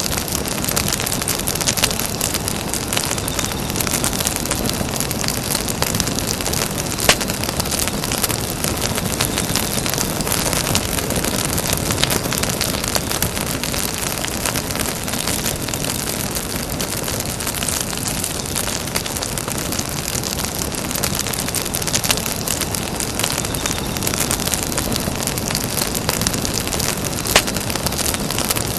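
Campfire burning: a steady rushing hiss with dense fine crackling, and a few louder single pops scattered through.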